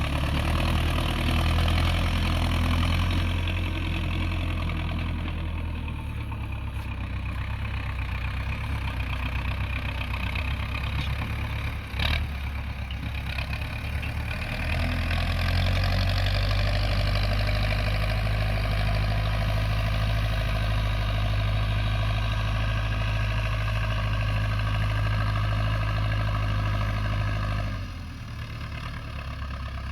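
Tractor's diesel engine running steadily while pulling a plough. Its level eases for several seconds, rises again about halfway through and drops near the end, with one sharp knock about twelve seconds in.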